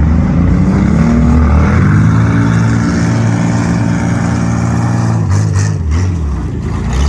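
Car engine running hard at high revs. Its pitch climbs a little, holds steady, then falls and turns uneven about five seconds in as the throttle eases off.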